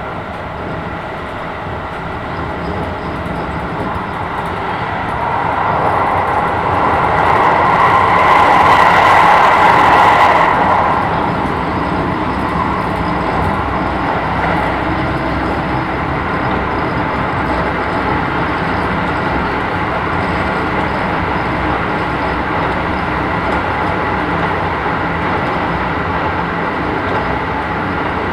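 Keisei 3000 series electric train with Toyo IGBT-VVVF drive running along the line, heard from inside the car: steady wheel-on-rail rumble with a faint steady motor tone. Between about 6 and 11 seconds in the noise swells louder and hissier, then settles back to a steady run.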